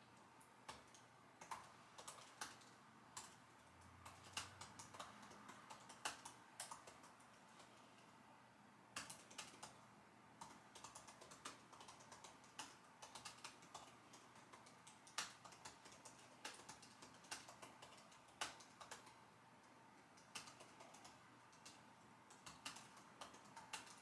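Typing on a computer keyboard: quiet, irregular key clicks in uneven bursts, with a brief pause near the middle.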